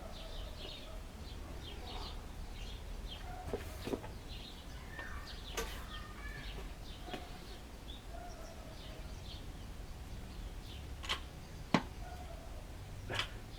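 Small birds chirping on and off over a low steady background rumble, with a few sharp clicks or knocks near the end.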